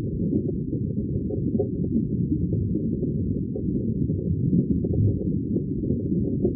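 Steady, muffled aquarium bubbling: a continuous low burble of air bubbles in water, full of small irregular pops.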